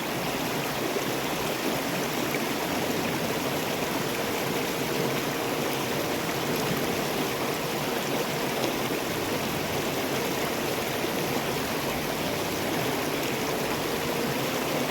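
Mountain creek running steadily over rocks, a continuous rush of water.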